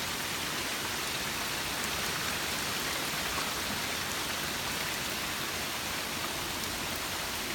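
Steady heavy rain falling and pattering on the ground and plants.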